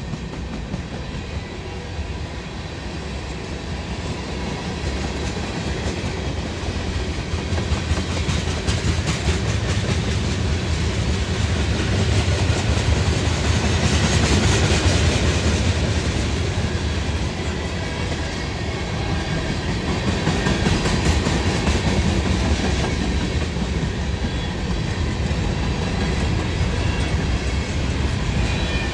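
Long Norfolk Southern freight train's cars rolling past, a steady rumble of steel wheels on rail that swells in the middle and eases afterwards.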